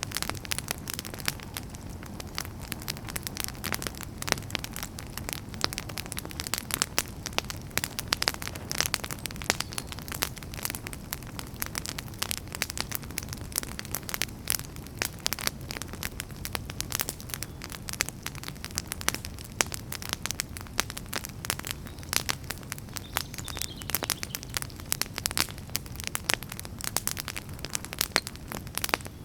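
Wood fire crackling in a fireplace: many irregular sharp pops and snaps, several a second, over a steady low rumble of the flames.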